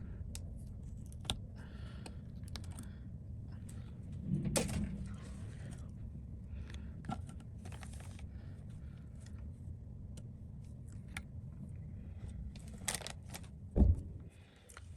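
Scattered small clicks and taps of tools and small parts being handled on a repair bench, over a steady low hum, with a louder knock near the end.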